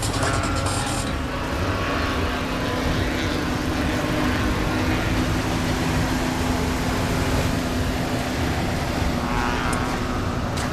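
Car engines running steadily, with a constant hum and no revving.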